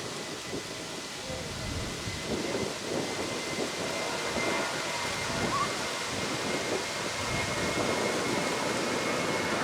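Jet aircraft approaching: a distant rumble that grows steadily louder, with a faint steady high whine above it.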